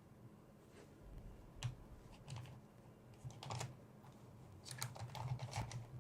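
Faint, irregular clicking and tapping of small makeup tools and cases being handled, sharp little clicks that come more often in the second half.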